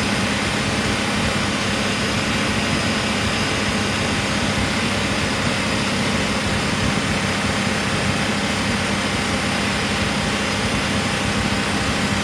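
Range Rover P38 engine running steadily at idle, with Rislone in the oil to free a sticking valve or lifter; the tick that had been heard is reported to be going away.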